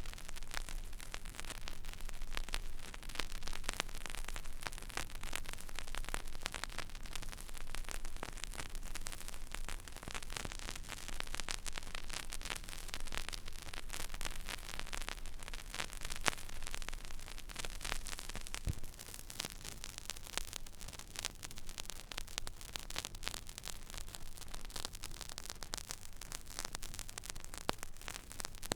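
Stylus riding the empty groove of a vinyl record: steady surface hiss thick with small crackles and pops, over a low hum, with one sharper pop about two-thirds of the way through.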